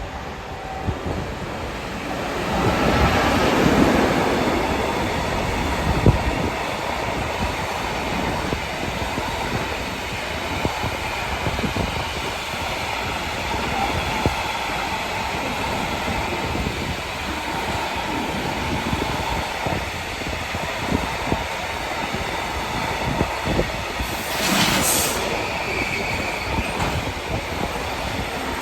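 Train rolling past on the rails, its wheels clacking over the rail joints, louder a few seconds in. A short high-pitched wheel squeal comes about 24 seconds in.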